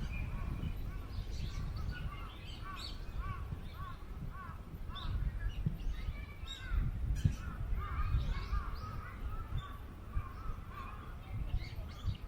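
Birds calling over and over in short arched notes, with wind rumbling steadily on the microphone.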